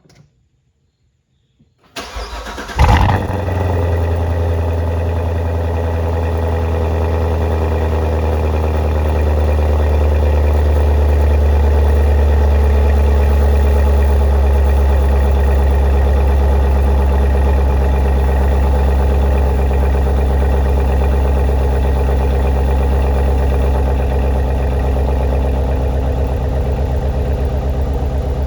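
A 2015 Corvette Z51's 6.2-litre LT1 V8 cold-started. About two seconds in the starter cranks briefly and the engine catches with a loud flare, then it settles into a steady fast cold idle.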